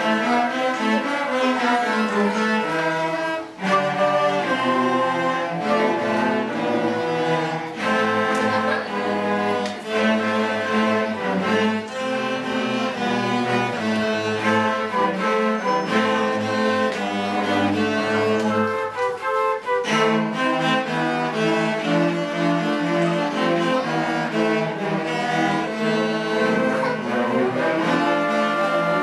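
Instrumental music on bowed strings, a melody over a lower cello-range line, played as a medley of frog songs.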